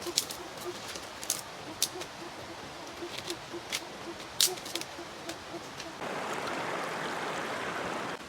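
Wet clicks and smacks of someone chewing food with the mouth close to the microphone, over a short low call repeating about three times a second. About six seconds in, a steady hiss starts and then cuts off suddenly.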